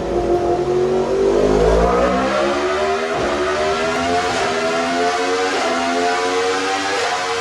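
Sport motorcycle engine accelerating hard through the gears. Its pitch climbs, with short breaks at upshifts about every second or so in the second half.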